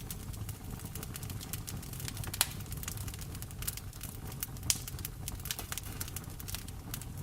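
Wood fire in a fireplace crackling, with many small irregular clicks and two louder pops about two and a half and four and a half seconds in, over a steady low rumble.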